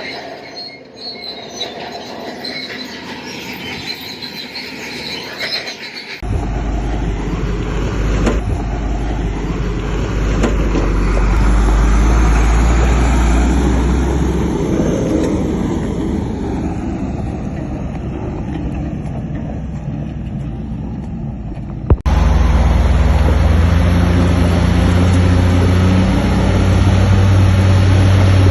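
Crawler bulldozer at work: diesel engine running under load, with the steel tracks squealing and clanking. The sound changes abruptly twice, about six seconds in and again about three quarters of the way through.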